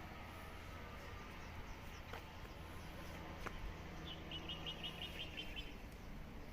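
A bird calling a quick run of about ten short, high chirps, about six a second, around the middle, over a faint low background hum with a few light clicks.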